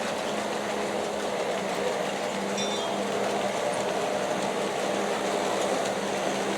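G-scale model coal train running steadily: a continuous hum from the motors and gears of its four Aristo-Craft locomotives and wheels rolling over the track. A brief high squeal comes about two and a half seconds in.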